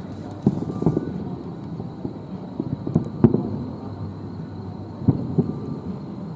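Aerial fireworks shells bursting in a run of booms, several in quick pairs, with a low rolling rumble between them. The sharpest bang comes a little past the middle.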